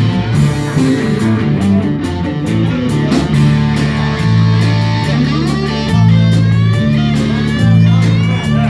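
Live country-rock band playing an instrumental break between verses: a lead guitar with bending, gliding notes over steady bass and drums.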